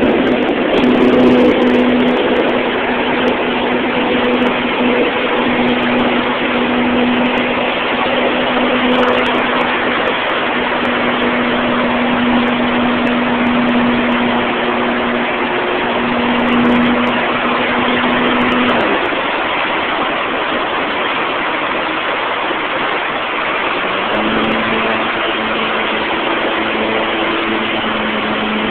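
Radio-controlled model airplane in flight, heard from a phone strapped to its underside: a loud, steady rush of wind over the microphone with the motor and propeller humming at one steady pitch. The hum fades out about two-thirds of the way through, as if the throttle is cut, and returns a few seconds later at a slightly lower pitch.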